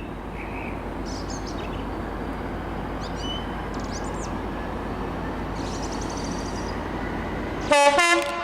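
Birds chirp over a steady low rumble. Near the end a train horn sounds briefly and loudly.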